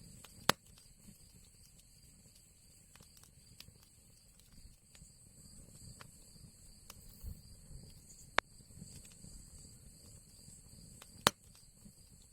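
Wood fire crackling in an old chimney fireplace: a low rumble of flames with scattered small clicks and three loud sharp pops, about half a second in, after about eight seconds, and near the end.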